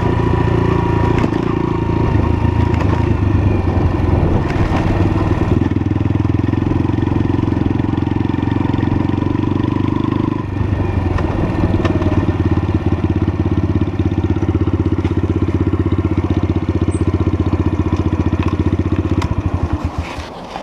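Lexmoto LSM 125's single-cylinder 125cc engine running steadily. About halfway through it settles into an even, low pulsing beat, and near the end it dies away as the engine is switched off.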